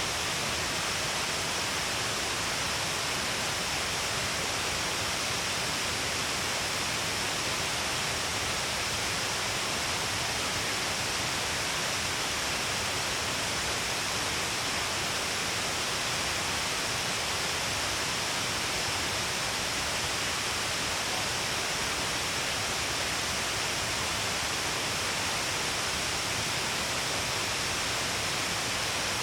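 Shiraito Falls, water pouring in many strands down a long cliff face. It makes a steady, unbroken rush with no change across the stretch.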